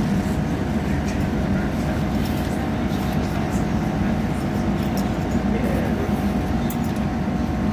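Steady running noise of a diesel passenger train under way, heard from inside the carriage: an even drone with a low engine hum.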